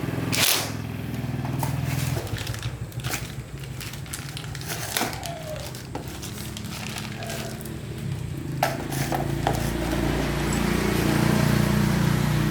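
Small four-stroke motorbike engine running steadily, getting louder from about two-thirds of the way through, with scattered sharp clicks and knocks over it.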